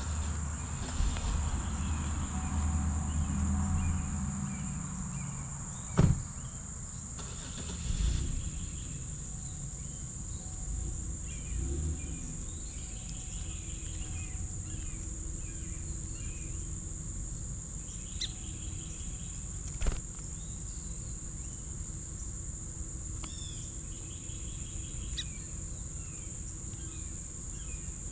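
A steady high-pitched insect chorus, typical of crickets, droning without a break, with scattered short bird chirps and trills over it. A low rumble sounds for the first few seconds, and two sharp knocks come about 6 and 20 seconds in.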